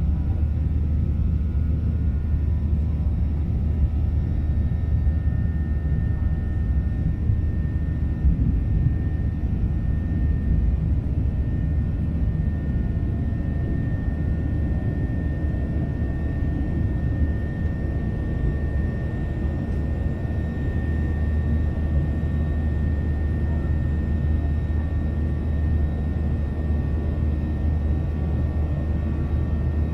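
Steady rumble of a Boeing 737-800's CFM56 engines heard inside the passenger cabin, with a faint steady high whine over it.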